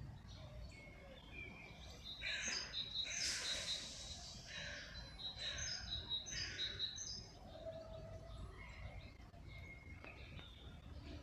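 Small songbirds chirping and twittering, with a busy run of quick high calls and a thin trill a couple of seconds in, thinning to a few faint calls later, over a steady low background rumble.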